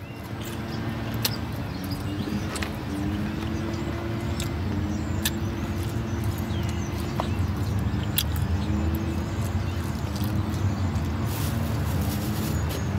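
A car engine running with a low, steady hum and a few held tones that shift slightly in pitch, growing louder over the first several seconds. A few faint clicks sound over it.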